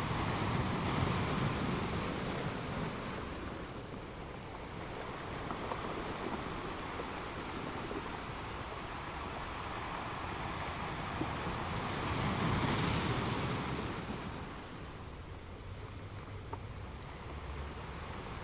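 Sea waves breaking and washing on a beach, a steady rush with two louder surges: one about a second in and one around twelve seconds in.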